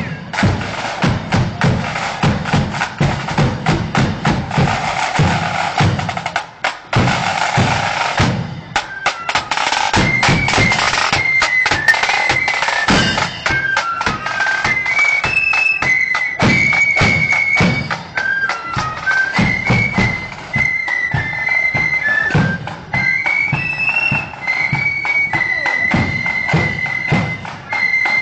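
Marching flute band playing: drums alone at first, with snare rolls and bass drum beats, then a high flute melody comes in over the drums about nine seconds in.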